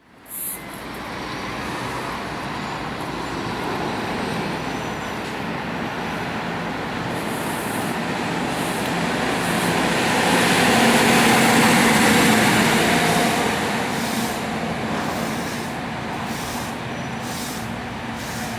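Fire truck engine running as the truck moves off, rising in loudness about ten to thirteen seconds in before easing again, with a short hiss at the very start.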